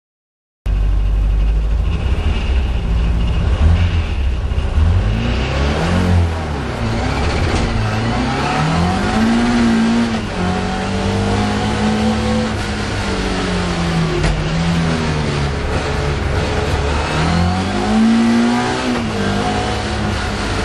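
Mk2 Ford Escort hillclimb car's engine heard from inside the cabin, driven hard: it starts abruptly about half a second in, and its note rises and falls repeatedly as the car accelerates and backs off.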